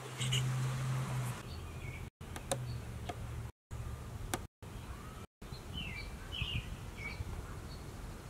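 Small birds chirping over a low, steady hum, with a few sharp clicks. The sound cuts out completely four times, each time briefly.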